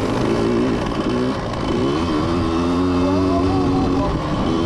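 Motocross motorcycle engine revving, its pitch rising and falling repeatedly as the rider opens and closes the throttle.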